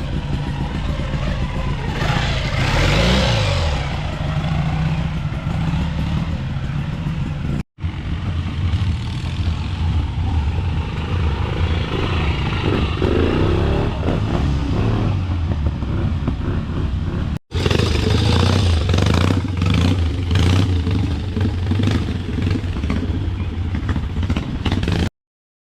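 Trials motorcycles riding a trial section at low revs, with bursts of throttle that make the engine note rise and fall, in three segments separated by abrupt cuts; the sound stops suddenly near the end.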